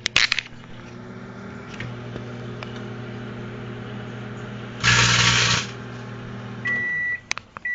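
Microwave oven running with a steady electrical hum while heating an empty snack bag to shrink it. About five seconds in there is a loud rush of noise lasting under a second. Near the end the hum stops and the microwave gives a high beep.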